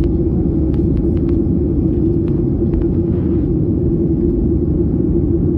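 Airliner cabin noise in cruise flight: a steady low rumble of engines and airflow, with a few faint clicks in the first three seconds.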